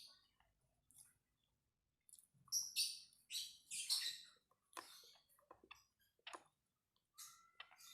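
Close-miked eating of brem, the dry, crumbly fermented rice cake: a run of crisp crackling crunches with wet mouth clicks, densest from about two and a half seconds in, then a few scattered bites near the end.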